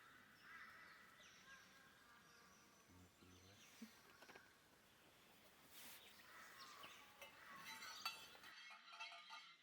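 Faint bird calls, short scattered chirps, over quiet bush ambience, becoming busier in the second half.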